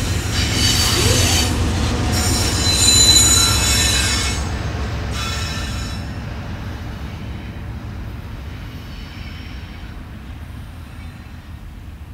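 Freight train rolling past on curved track. The wheels squeal in several high tones against the rails over a steady low rumble. The squeal dies out about six seconds in and the rumble slowly fades.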